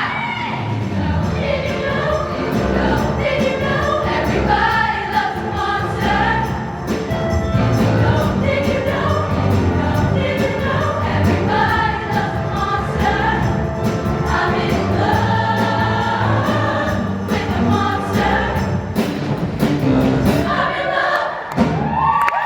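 Show choir singing in harmony over a backing with drums keeping a steady beat. Near the end the voices swoop up into a high held note.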